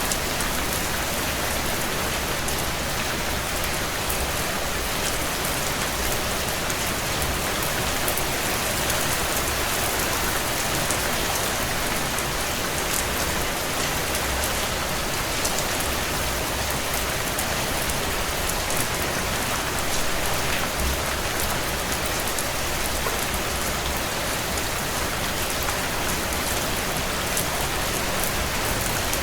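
Heavy rain falling steadily on window glass, a dense even hiss with scattered small ticks.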